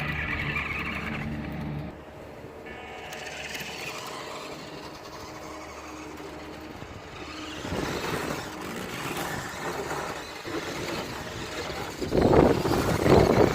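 Small electric motor and drivetrain of a WPL D12 1:10 RC drift truck whining as the throttle is worked, its pitch stepping up and down. Near the end a louder rough rushing noise sets in.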